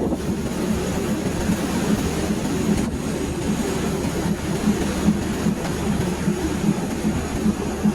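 Passenger train running along the track, a steady rumble of wheels on rails.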